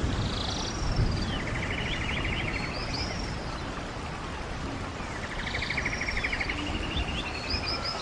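A songbird sings the same phrase twice, about 4.5 s apart, each time slurred high notes followed by a rapid buzzy trill. Under it runs a steady rush of flowing stream water.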